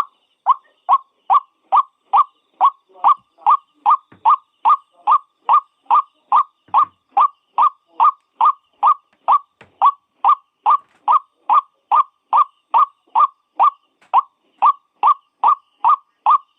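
White-breasted waterhen (ruak-ruak) calling: one short, slightly falling note repeated evenly about twice a second, without a break.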